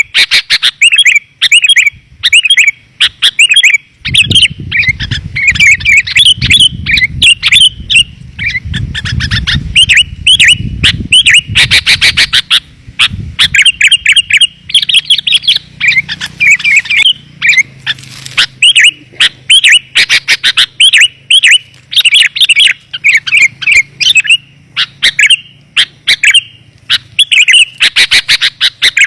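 Sooty-headed bulbul (kutilang) calling: rapid, clear chirps in close succession, a lure call used to draw wild bulbuls in. A low rumble runs beneath the calls from about four seconds in for some eight seconds.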